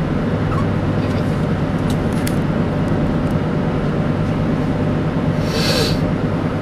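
Steady low road rumble of a car heard from inside the cabin while driving, engine and tyre noise together. A short hiss cuts in briefly about five and a half seconds in.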